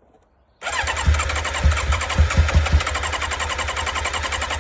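Yamaha sport bike's electric starter cranking the engine on full choke, a steady rapid churning that starts about half a second in. Over the first two seconds of cranking come several louder low thumps as the engine fires for a split second without catching.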